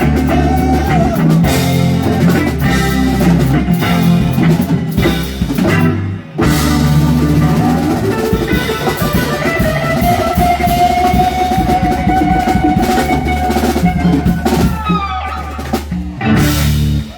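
Live band playing the instrumental close of a song on drum kit, percussion, bass and guitar, with a long held lead note in the middle. The band drops out briefly about six seconds in and plays its final stop near the end.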